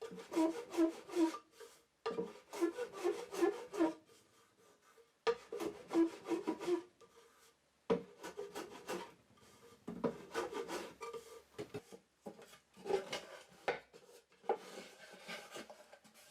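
Hand plane with a very shallow set taking short, quick strokes across the wooden corner splines of a mitered box to trim them flush, a few strokes a second in bursts with brief pauses between.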